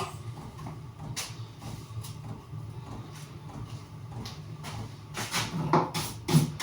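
Scattered knocks and clatter from parts being handled, over a steady low hum. The knocks come once about a second in and grow more frequent near the end.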